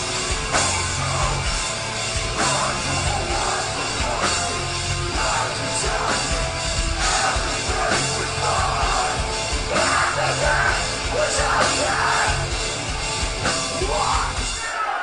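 A live metalcore band playing at full volume, with distorted guitars, drums and vocals that are sung and yelled.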